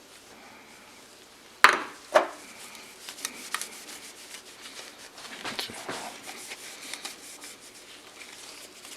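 Two sharp knocks about half a second apart, some two seconds in, then uneven rubbing and small scrapes of hand work on a stainless steel exhaust tip as the polishing begins.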